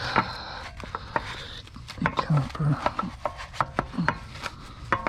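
A brush scrubbing a car wheel around the brake caliper: rubbing and scraping with many irregular sharp knocks as the brush hits the wheel.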